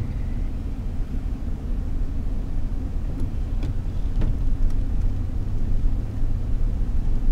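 Car engine and drivetrain running, heard from inside the cabin as a steady low rumble.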